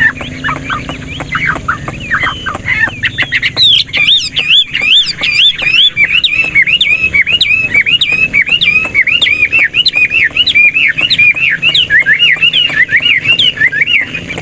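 Chinese hwamei (melodious laughingthrush) singing: a quick varied twitter that breaks, about three seconds in, into a long loud run of repeated looping whistled notes, several a second.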